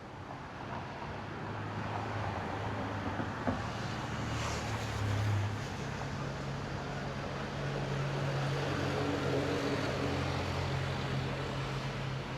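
Engine hum of passing motor traffic that swells in over the first couple of seconds and carries on steadily, over a hiss of background noise. A single sharp click sounds about three and a half seconds in.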